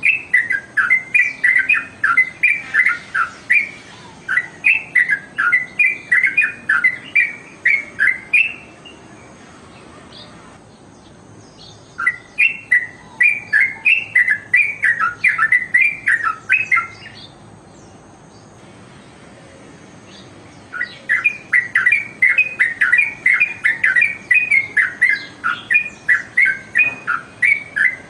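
Trucukan (yellow-vented bulbul) singing in bouts of quick, repeated chirping notes, about two or three a second. The song breaks off twice for a few seconds, about a third of the way in and again about two-thirds in.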